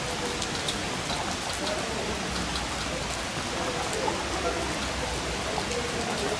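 Heavy rain falling steadily on grass, paths and puddles, with many small ticks of drops hitting close by.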